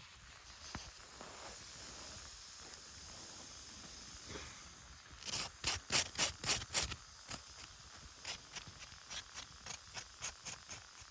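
Food sizzling in a small frying pan over a campfire, a steady hiss. About halfway through comes a quick run of about eight sharp strokes, followed by lighter ones spaced further apart.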